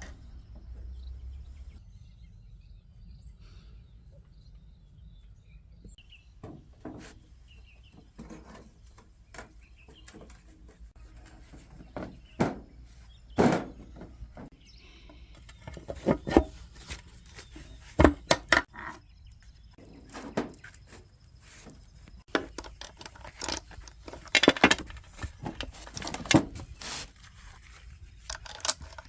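Irregular knocks and clinks of hand tools and parts being handled during workshop work, sparse at first and busier and louder in the second half.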